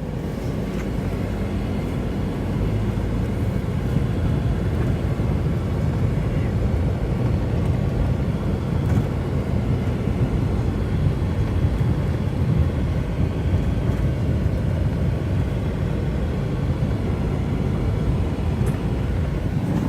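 Strong sandstorm wind buffeting the microphone: a steady, loud low rumble that keeps wavering in strength.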